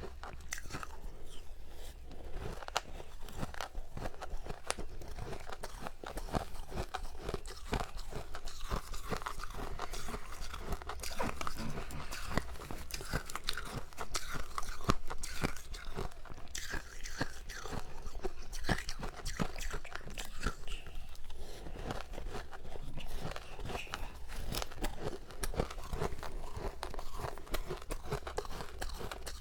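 Close crunching of soft, powdery freezer frost being bitten and chewed, a dense run of small crackles that goes on without a break.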